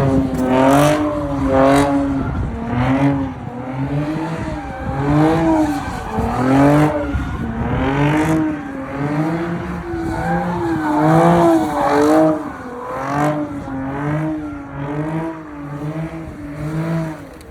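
Car engine revving hard during a burnout or donuts, its pitch swinging up and down about once a second, with tyres squealing against the pavement.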